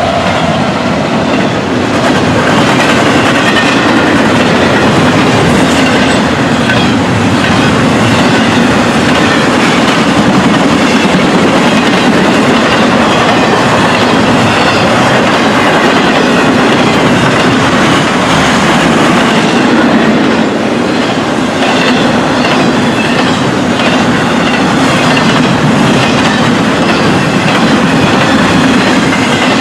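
Freight train rolling past close by, its car wheels clattering over the rail joints in a loud, steady rumble.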